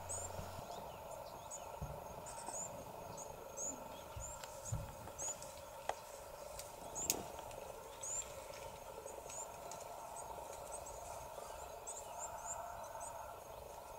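Faint outdoor ambience: short high chirps, likely small birds, repeat irregularly over a steady hum, with a few soft knocks.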